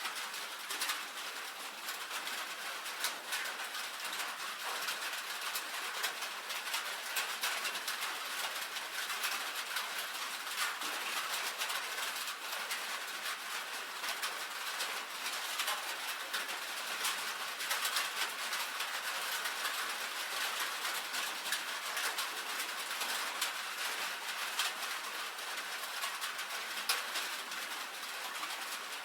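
Rain on a tin roof: a steady, dense patter of countless small drop impacts ticking on the metal.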